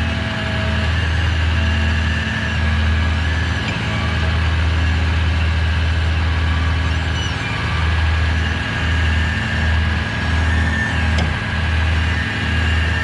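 Heavy truck engine running steadily under a light load, with a low throb that starts pulsing about twice a second in the second half, and a faint steady high whine over it.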